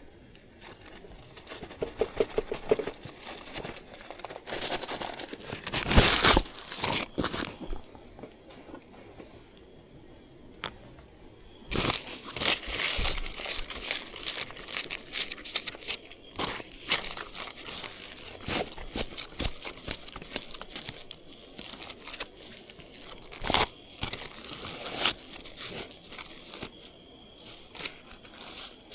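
Irregular crinkling and rustling, as of something crinkly being handled. There is a loud burst about six seconds in, and busier crinkling from about twelve seconds on.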